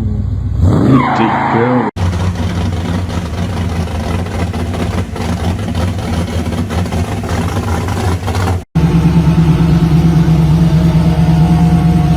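Muscle car engines rumbling steadily in clips spliced together, with abrupt cuts about two seconds in and again near the end, where a louder rumble takes over. The short opening clip carries gliding, rising and falling pitches.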